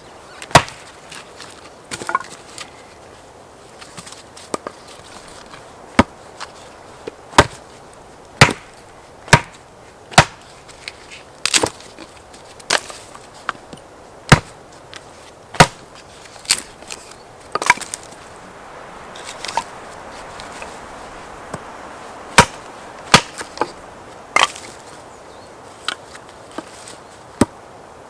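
Wood being chopped with repeated sharp, irregular blows, about one every second or two, some in quick pairs.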